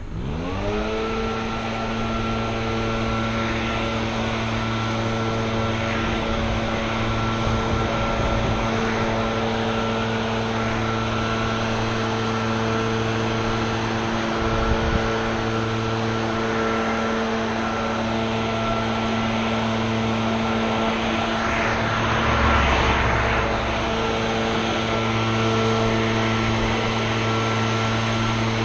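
Small gasoline engine of lawn equipment revving up in the first second, then running steadily at high speed.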